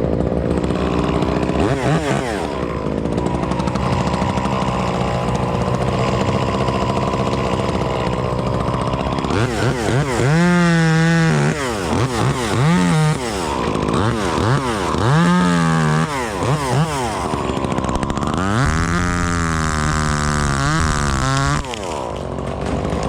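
Chainsaw running at a low steady speed, then revving up and cutting in three bursts over the second half, its pitch rising and sagging as the chain bites into the wood.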